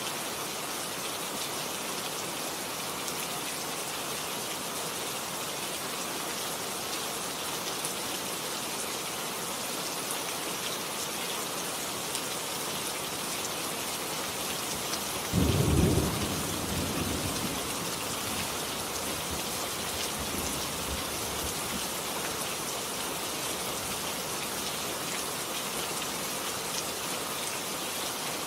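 Steady rain falling, with a single thunderclap about halfway through that rumbles and fades away over a few seconds.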